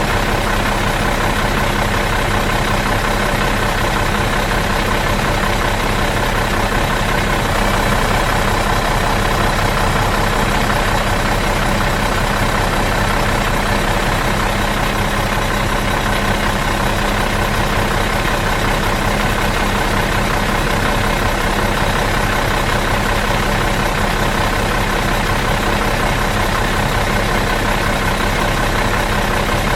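Bus engine idling steadily out of gear, an even, unchanging drone with a fast regular pulse.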